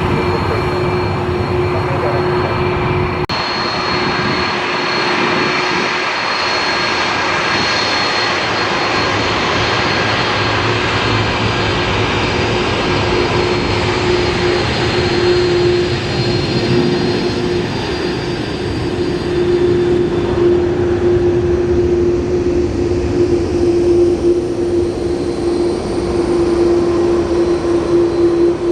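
Jet airliner engines running, a dense rush with a steady hum and a faint high whine, growing slightly louder near the end.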